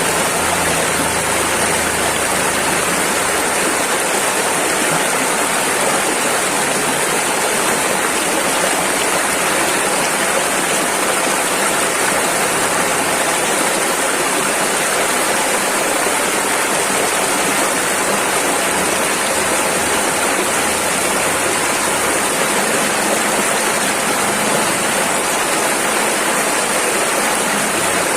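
Rushing river water, a steady, dense rush of rapids.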